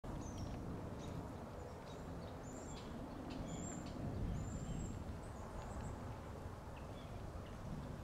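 Several short, high, thin bird calls scattered over a steady low outdoor rumble, with a few faint clicks among them.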